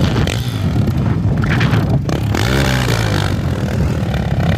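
Dirt bike engine revving hard, with a rise in pitch a little past halfway.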